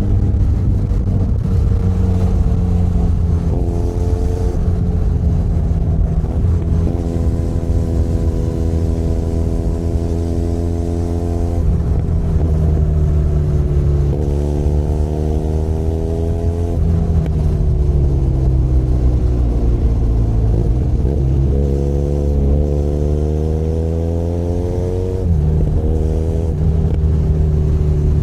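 Benelli Leoncino 500 Trail's parallel-twin engine running under way. Its pitch holds steady for several seconds, then rises and falls with the throttle, and drops suddenly a few seconds before the end.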